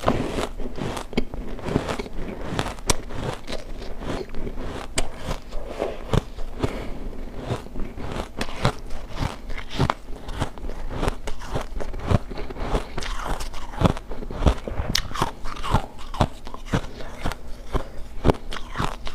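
Refrozen ice chunks being bitten and chewed close to the microphone: a dense, irregular run of sharp cracks and crunches, several a second.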